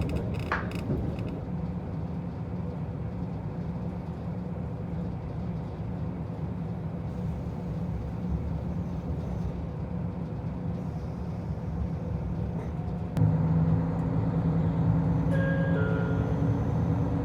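Interior running noise of a Soya Main Line local diesel railcar: a steady rumble. About 13 seconds in it grows louder as the power comes on, adding low steady drive tones, and a few higher tones then shift pitch in steps.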